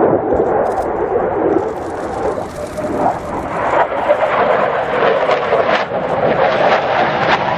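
Loud jet noise of an F-16 Fighting Falcon in flight: a rough, rumbling noise with a crackle that grows stronger in the second half.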